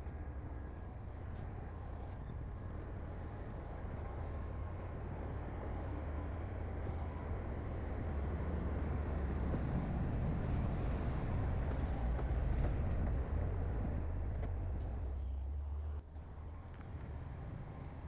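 Heavy diesel earthmoving machinery running under load with a deep, steady rumble. It grows louder through the middle and drops off abruptly near the end.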